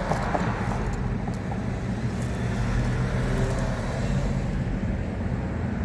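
Steady low rumble of vehicle traffic, without breaks or clear single events.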